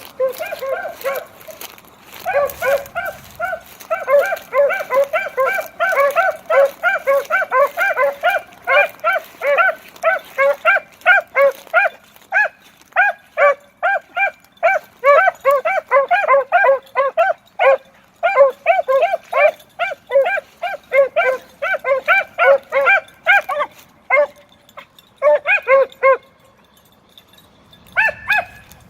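Hunting beagles baying in rapid, repeated yelps, several a second, as they run a rabbit's trail; the baying breaks off briefly twice near the end.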